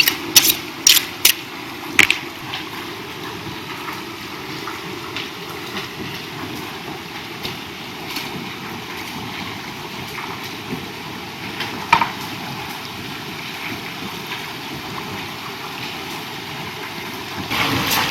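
Steady rush of a flowing river or stream, with a few sharp clicks or knocks in the first two seconds and another about twelve seconds in; the water grows louder near the end.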